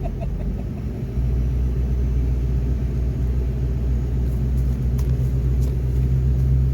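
Plow truck's engine running steadily with a low hum, growing a little louder about a second in.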